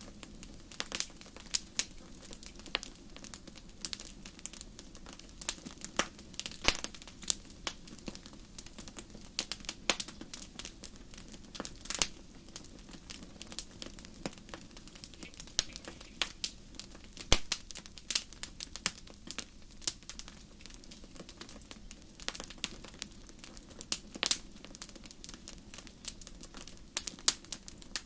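Wood fire burning in a fireplace, crackling with irregular sharp pops and snaps, a few of them louder, over a low steady background.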